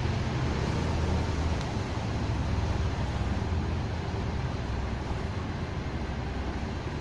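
Diesel multiple unit's underfloor engines running at the platform: a steady low rumble that eases slightly toward the end.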